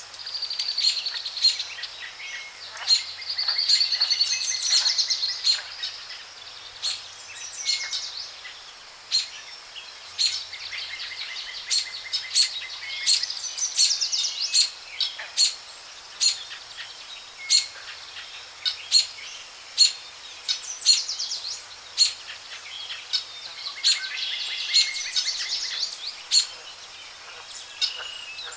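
Layered jungle soundscape: birds calling and trilling in overlapping high warbling phrases, over many sharp, irregular clicks and chips and a steady faint high hiss.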